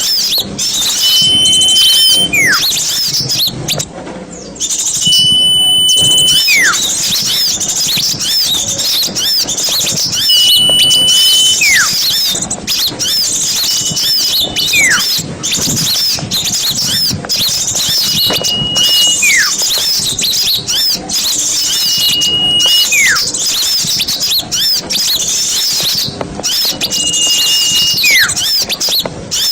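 Bird-lure recording of many small songbirds chattering at once in a dense, high-pitched twitter. About every four seconds a single held high whistle is followed by a quick falling whistle.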